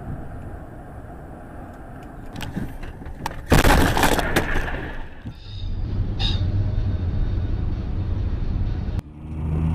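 Car crash: a sudden loud impact with a crunch of breaking about three and a half seconds in, fading over a second or so, followed by a steady low vehicle rumble.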